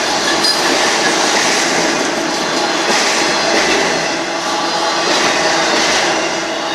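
A Union Pacific mixed freight train's cars rolling past at speed: a loud, steady rumble and rattle of steel wheels on the rails, with a run of clacks as the wheels cross rail joints.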